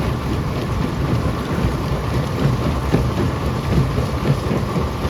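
Stone crusher running, a steady low rumble with many small crackling knocks of rock breaking and rattling inside it.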